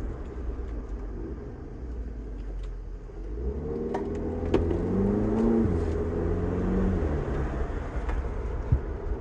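Volkswagen Polo GTI's 2.0-litre turbocharged four-cylinder heard from inside the cabin, under the steady hum of road noise. About three and a half seconds in, the engine revs climb under hard acceleration and then drop away a few seconds later, with a few sharp clicks as it pulls and a single knock near the end.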